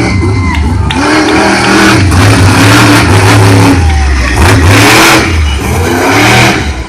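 Monster truck engines revving hard, the pitch rising and falling over and over as the trucks race, loudest around the middle.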